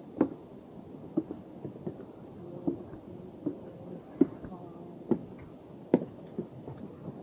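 Footsteps of hikers walking on a wooden boardwalk trail, a knock about every second at an unhurried pace.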